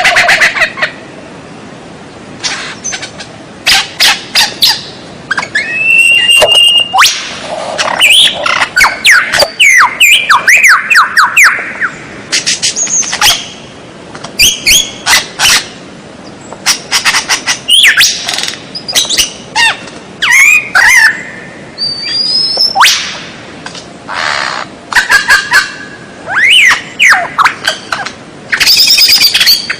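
White-rumped shama (murai batu) singing a long, varied song: loud whistled phrases that glide up and down, mixed with rapid clicking notes, in bursts separated by brief pauses.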